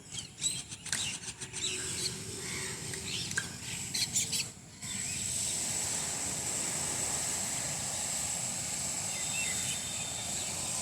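Small birds chirping in quick, short calls. About five seconds in, a steady, jarring noise with a high whine sets in: repair work going on in a flat, with the chirping still audible over it.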